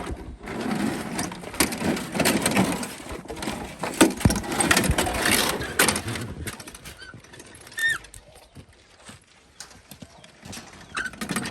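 Busy rustling, scraping and knocking as chicken-house litter and dirt are gathered up and handled in a container. It stops about two-thirds of the way through, and a few short bird chirps follow.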